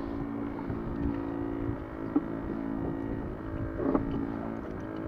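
A boat engine droning steadily at a constant speed, with one short louder sound near the end.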